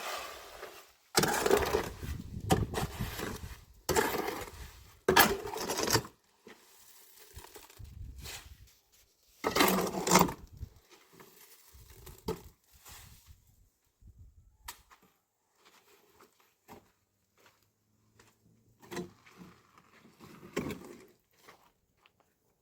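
Three loud bursts of rough scraping and rattling, the first about a second in, the last about ten seconds in, followed by quieter scattered knocks and scrapes.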